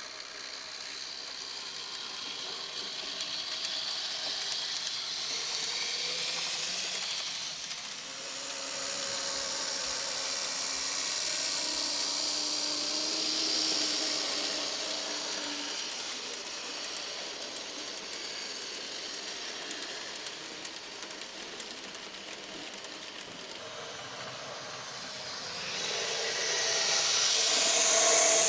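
Märklin mini-club Z-scale model trains running on the layout: a thin, high hissing whirr of the tiny motors and wheels on the rails that swells and fades as the trains pass, loudest near the end.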